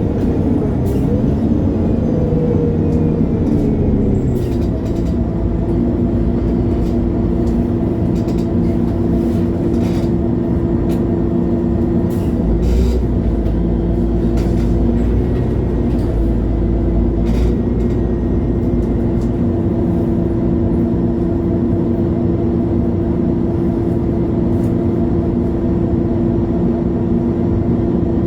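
MAN A23 Lion's City G articulated city bus: its diesel engine's note falls over the first few seconds, then runs steady, with scattered clicks and knocks and a heavier low rumble in the middle.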